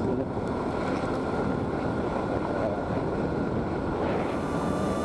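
Wind noise rushing over the microphone of a moving motorcycle, with the engine running underneath as a steady, even noise.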